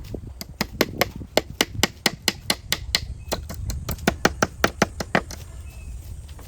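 Rapid, even sharp strikes of a hand tool on wood or bamboo, about five a second, stopping about five seconds in.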